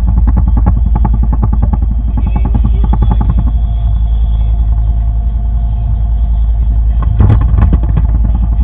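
A boat's engine running steadily with a low rumble and a fast, even pulse, with a brief louder clatter about seven seconds in.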